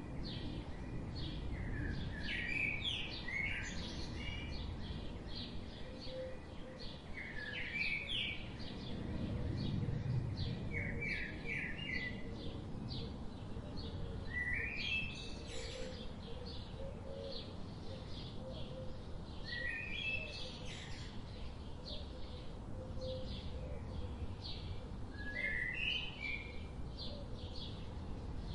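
Small birds chirping: quick runs of a few notes every few seconds, with fainter rapid chirps between, over a low steady background hum.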